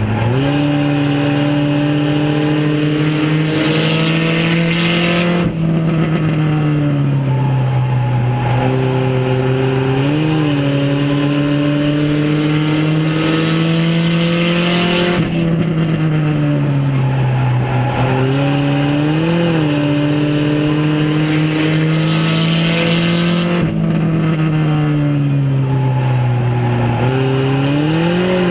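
Mini stock race car's four-cylinder engine heard from inside the cabin under racing load. Its pitch climbs steadily along each straight, then drops sharply as the throttle is lifted for the turns, three times in a cycle of about nine seconds.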